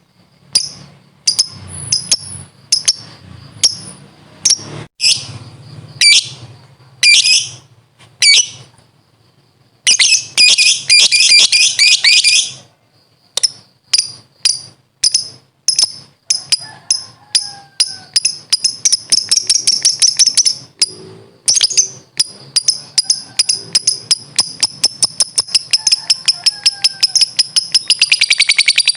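Lovebird 'ngekek' chattering: sharp high chirps, spaced at first, a dense burst of rapid calls about ten seconds in, then the chirps quicken into one long, continuous rattling chatter over the last several seconds.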